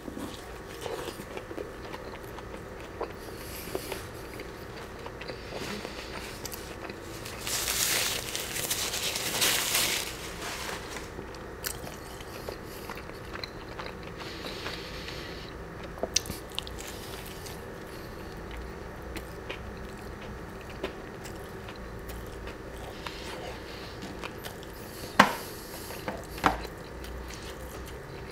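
Close-miked biting and chewing of a crispy fried chicken sandwich, the breading crunching. The chewing is loudest for a couple of seconds about eight seconds in, with a couple of sharp clicks near the end.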